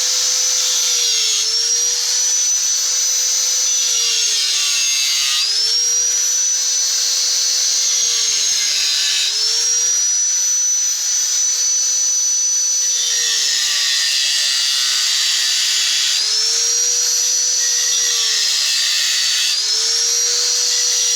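A handheld high-speed electric power tool running continuously with a loud, steady whine. Its pitch sags every few seconds as it is pressed into the metal work and rises again when it is eased off.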